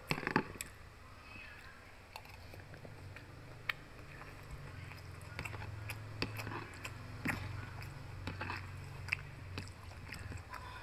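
Close-miked chewing of a mouthful of food, with sharp clicks and taps of a metal spoon against a plastic food container, loudest just after the start.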